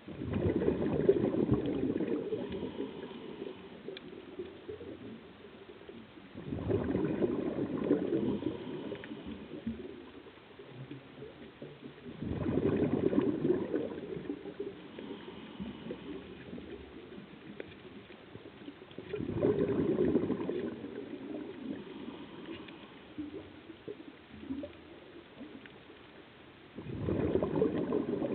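Scuba diver's regulator exhalations heard underwater: a burst of bubbling every six to seven seconds, five in all, each lasting about two seconds, with quieter stretches between breaths.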